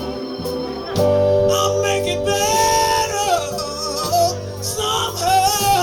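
Live band music with a sustained, wavering vocal or lead line over guitar and bass, between sung verses.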